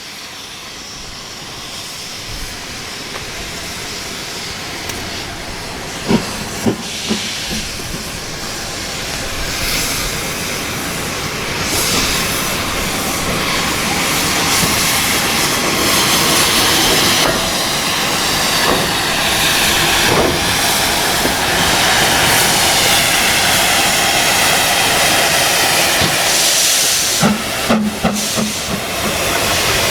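Steam locomotive hissing steam, growing steadily louder, with a few short metallic knocks about six seconds in and again near the end.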